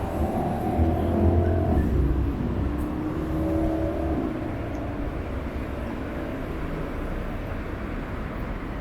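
City road traffic: a motor vehicle's engine rumbles past, loudest about a second or two in, then fades into steady street traffic noise.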